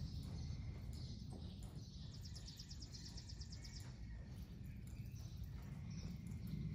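Faint indoor-arena ambience: a small bird chirping in a quick run of notes about two seconds in, over a steady low rumble, with a horse's hooves falling softly on the sand.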